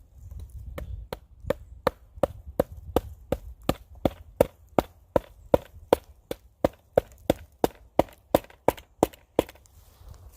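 Rapid, regular chopping strikes into dry dead wood, about two dozen sharp blows at roughly three a second, starting about a second in.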